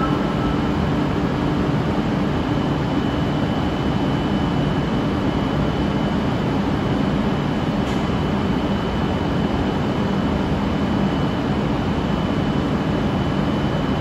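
E8 series Shinkansen train standing at the platform with its onboard equipment running: a steady hum with a thin high tone over it.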